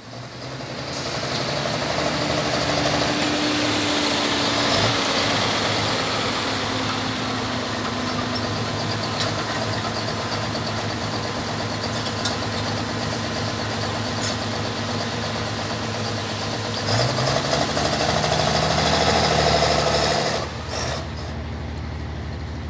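Pulling tractor's turbocharged diesel engine running hard under load in a light limited super stock pull, loud and steady, rising about three quarters of the way through, then dropping back near the end.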